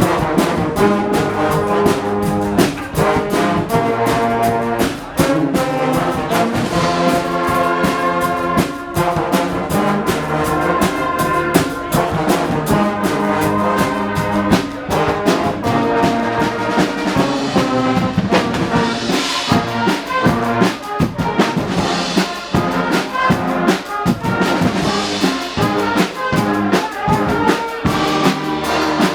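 Guggenmusik carnival band playing: trumpets and trombones blaring loud chords over a steady driving drum beat.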